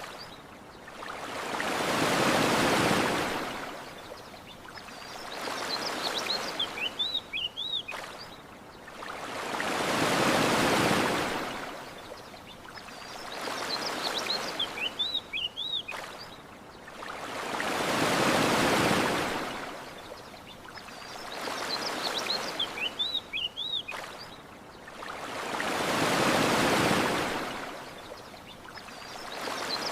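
Ocean waves washing onto a shore in slow swells, a larger wave about every eight seconds with a smaller one between. Short runs of high bird chirps come in the lulls between waves. The whole pattern repeats exactly every eight seconds, as a looped recording.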